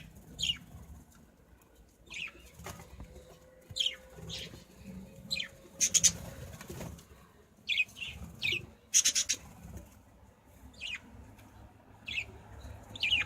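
Pet budgerigars and finches chirping in short, quick, falling calls scattered throughout, with wing flapping. Two brief louder bursts come about six and nine seconds in.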